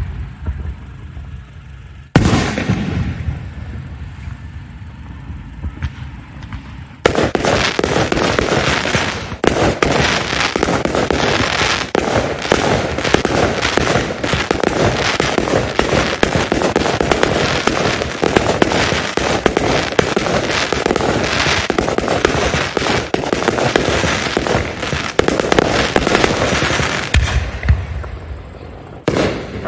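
Fireworks bursting overhead. A single loud boom comes about two seconds in and dies away. From about seven seconds a dense barrage of rapid bangs runs on, then thins out near the end.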